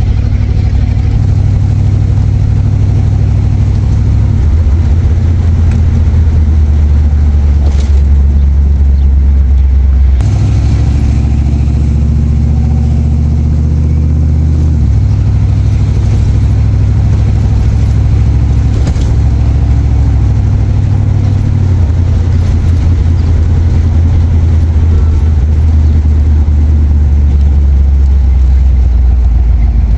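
A car engine droning steadily as the vehicle drives, its low note stepping to a new level several times.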